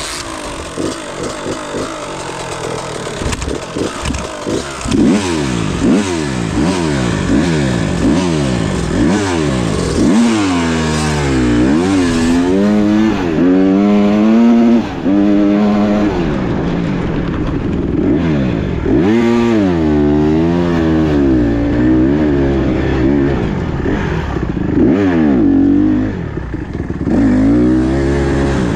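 Small four-stroke single-cylinder dirt bike engine revving up and down over and over as it is ridden round a motocross track. Its pitch climbs and drops every second or two at first, then holds high with a wavering pitch for several seconds at a time.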